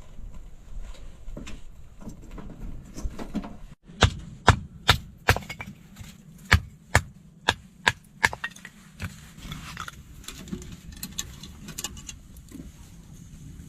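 A run of about ten sharp knocks, roughly two a second, over a steady low rumble.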